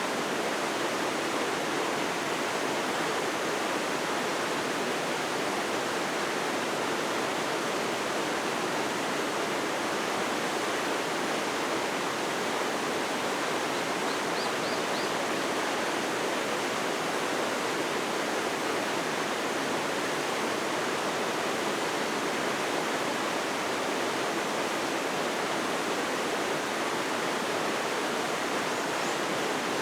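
Steady, even rushing noise that holds the same level throughout, with a few faint high chirps about halfway through.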